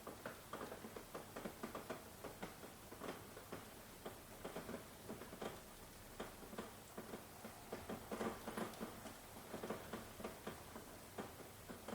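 Rain falling softly, heard as many irregular drop taps, several a second, on a hard surface over a faint hiss.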